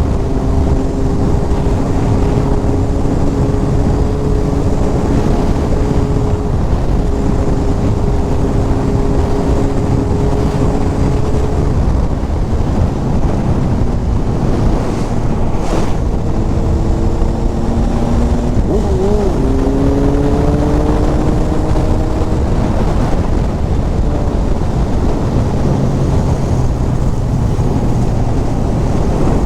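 Inline-four sportbike engine droning at a steady cruising speed, its pitch holding and then drifting gently up and down, under heavy wind buffeting on the microphone.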